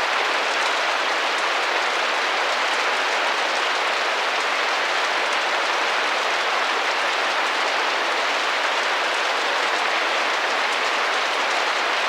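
Steady rain pattering against a window pane, an even hiss of many small drops with faint ticks.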